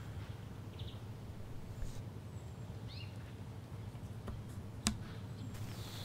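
Quiet room ambience: a steady low hum with a few faint bird chirps, and a single sharp click about five seconds in.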